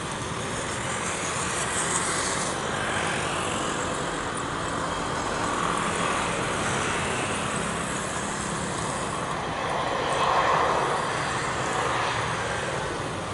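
Steady rushing engine noise, swelling louder about ten seconds in.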